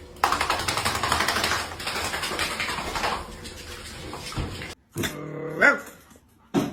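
Splashing or rushing water for about three seconds, then a dog's short rising whine about five seconds in.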